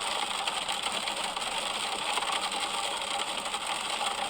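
Heavy rain coming down, a steady, even hiss.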